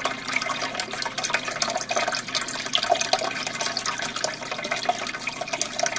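Aquarium water flowing and splashing steadily, with many small droplet ticks through it.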